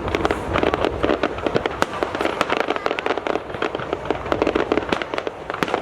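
Fireworks display: a dense, unbroken run of sharp pops and crackles, many a second, over a low rumble of bursting shells.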